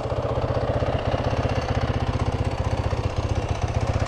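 Dirt bike engine idling steadily with an even, rapid firing beat. It was just restarted once a loose positive battery terminal had been tightened, and is left running to charge the battery.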